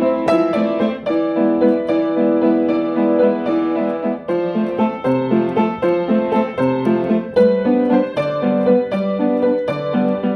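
Piano music: a melody over broken chords, with lower bass notes coming in about halfway through.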